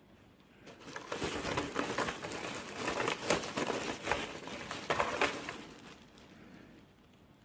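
Crinkling and rustling with many small clicks, starting about a second in and dying away near the end.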